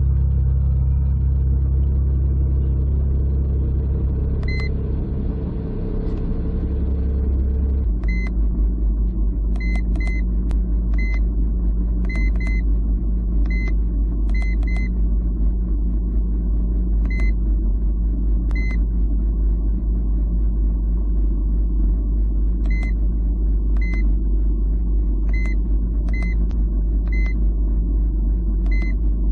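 Porsche 991.1 GT3's flat-six engine idling with a steady low rumble whose pitch changes about eight seconds in. Short electronic beeps sound one after another at uneven gaps over it, many times in the second half.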